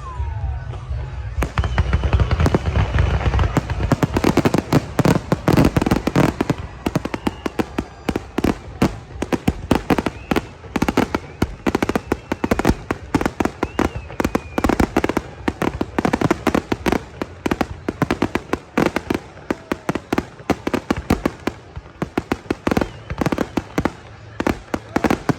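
Fireworks display: a dense run of sharp crackling bangs, many a second, with deep booms in the first few seconds and a few whistles gliding in pitch.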